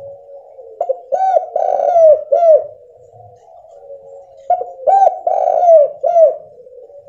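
Spotted dove (tekukur) cooing: two phrases of four or five rounded coo notes each, one about a second in and another about four and a half seconds in, the kind of clear call used as a lure to set other doves calling.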